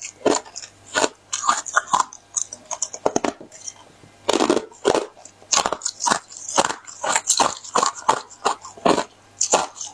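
Hollow pineapple-shaped ice being bitten and chewed close to the microphone: an irregular run of sharp, crisp crunches, two or three a second, with a heavier crunch about halfway through.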